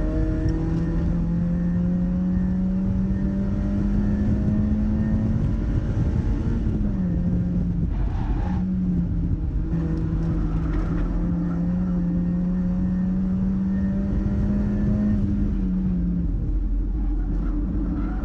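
Mazda MX-5's four-cylinder engine pulling hard on track, its note climbing slowly under load. It drops at a gear change about seven seconds in, breaks briefly around eight seconds, climbs again, then falls away near the end as the driver comes off the throttle. Steady wind and road noise run underneath.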